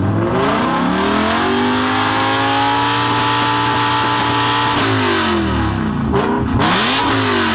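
Evosport-tuned BMW M5 engine revving: it climbs over about two seconds, holds high revs for a couple of seconds, then falls back, followed by a short quick blip near the end.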